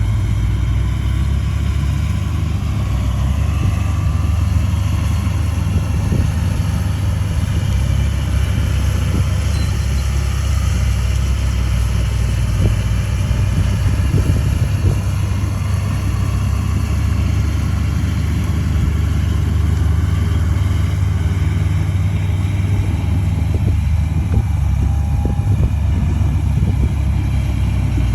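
Diesel engine of a crawler bulldozer running steadily at a constant speed, with a deep low drone and mechanical clatter over it.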